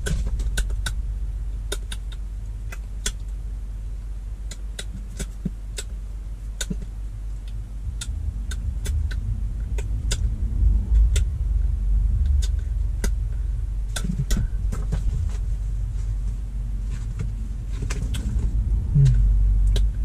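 Steady low rumble of a car's running engine heard inside the cabin, with many short sharp clicks and rustles from sheets of paper being handled.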